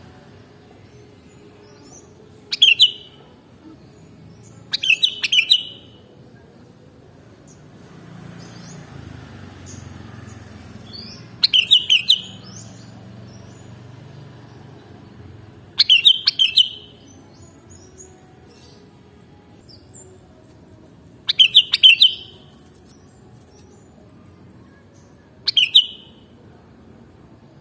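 Sooty-headed bulbul (kutilang) calling in six short, loud chirping phrases, spaced a few seconds apart, over a faint low background hum.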